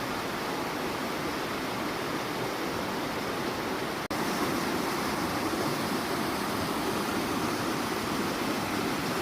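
Steady rush of a waterfall: an even wash of falling water that drops out for an instant about four seconds in.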